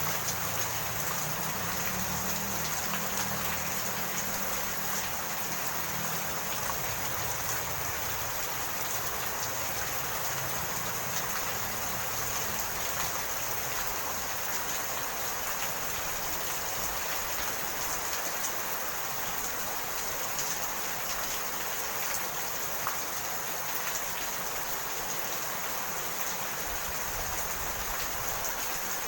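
Steady rain falling, an even hiss of many drops with no pauses. A low rumble underneath fades out over the first few seconds.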